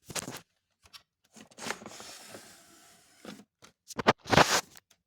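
Handling noises of objects being picked up and moved: a few short scrapes and knocks, a longer rustling rub about a second and a half in, and a louder cluster of scraping near the end.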